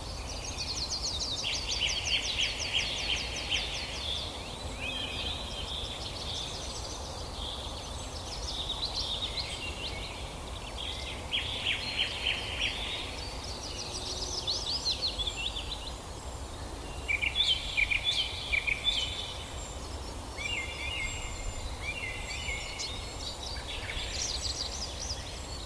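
Songbird singing: phrases of fast trilled and chirped notes repeated every few seconds, over a steady low background rumble.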